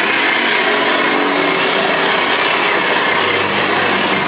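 Electric motor and gearbox of a child's battery-powered ride-on motorcycle running steadily, a continuous whine whose pitch wavers slightly.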